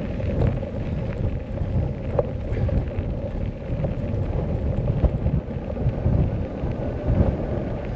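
Strong gusty wind buffeting the microphone, a heavy rumble that swells and eases.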